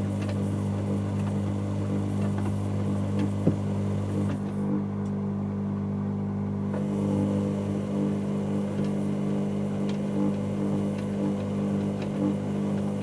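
Dyson Contrarotator CR01 washing machine running mid-cycle: a steady motor hum with drum noise and a few light clicks, one sharper about three and a half seconds in. The hum changes about four seconds in and again near seven seconds, as the motor's speed or direction shifts.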